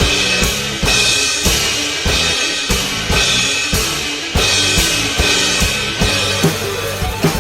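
Drum kit played along to an instrumental rock backing track: bass drum and snare hits under repeated crash cymbals, roughly once a second, over the steady pitched instruments of the track.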